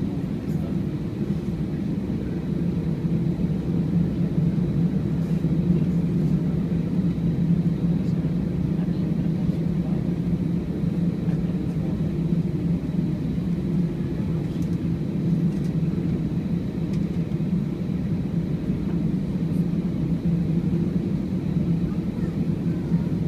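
Airbus A319 cabin noise with the engines running: a steady low hum and rumble, with a faint high whine above it.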